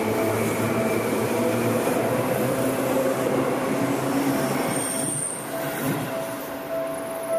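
Electric commuter train running past close by and pulling away, wheels and running gear rattling on the track; the noise drops off about five seconds in, leaving a steady thin tone.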